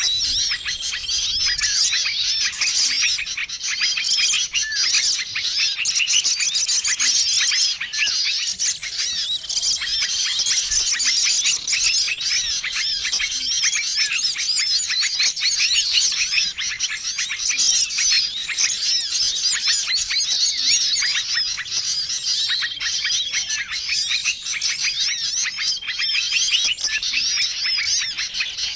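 Bird-lure recording of many small songbirds calling at once: a dense, unbroken chatter of quick chirps and trills, with a short flat note recurring every few seconds.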